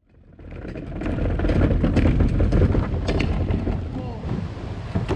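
Wind buffeting the microphone over moving water, fading in over the first second, with scattered short knocks and clicks.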